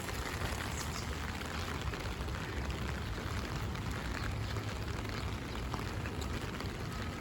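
Rain falling steadily on an umbrella held overhead, a continuous hiss with a low rumble underneath.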